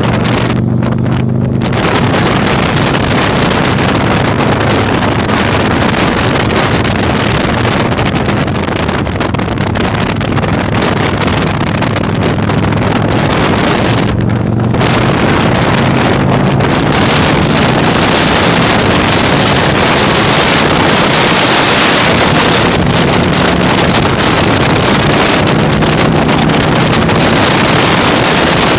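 Heavy wind noise on the microphone over a Yamaha Virago 1100's air-cooled V-twin engine running while riding. The wind lets up briefly about halfway through and is loudest in the second half.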